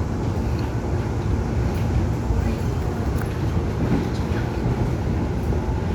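Steady low rumble of a Seoul Subway Line 1 electric commuter train (Korail 311000 series) running, heard from inside the passenger car.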